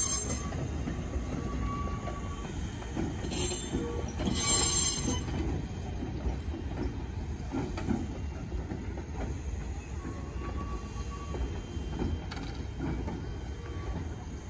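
Nagano Electric Railway electric train running along the yard track, its wheels rumbling and clacking over the rails. Loud, shrill wheel squeals come at the start and again about three to five seconds in, with thinner single-pitched squeals around two and ten seconds.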